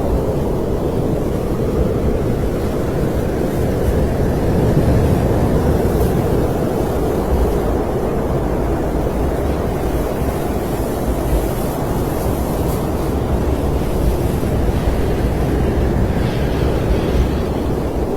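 Snowstorm wind blowing steadily, a dense low rushing noise that swells slightly in strength now and then.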